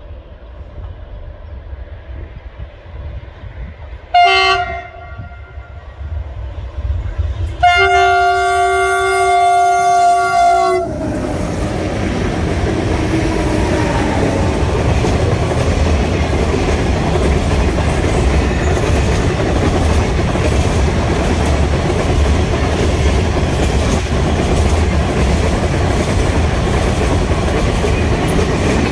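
South African Railways class 18E electric locomotives sounding their horn, a short blast about four seconds in and then a longer one of about three seconds, on one steady note. From about eleven seconds on, the locomotives and their container wagons pass close by with a loud, steady rumble of wheels on rail.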